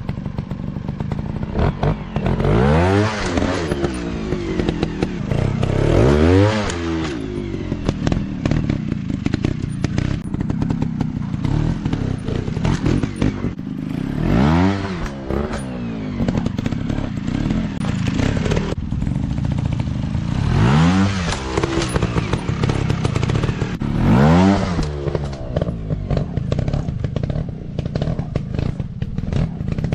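Dirt bike engines revving up and dropping back again and again, with scattered knocks and clatter.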